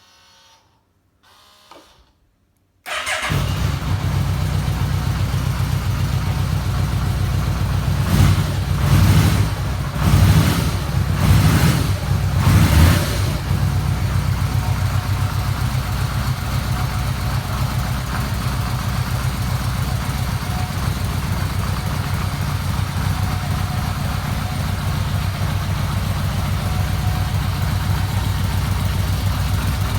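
Yamaha VMAX 1200's V4 engine starting about three seconds in, blipped five times over the next several seconds, then idling steadily.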